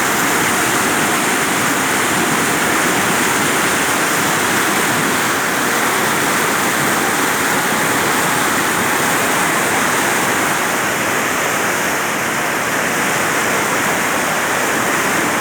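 Storm rainwater rushing in a steady, unbroken wash.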